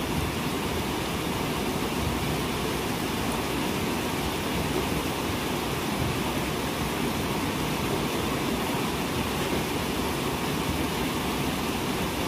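Heavy rain pouring down steadily onto a tiled rooftop, an even, unbroken hiss of water.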